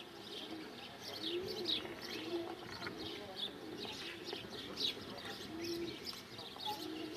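Birds calling: many short, high chirps several times a second over repeated low, arched calls about once a second.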